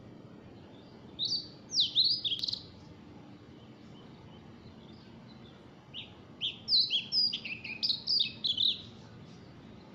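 Songbird chirping in two quick bursts of short sweeping notes, a brief one about a second in and a longer run about six seconds in, over a faint steady background hiss.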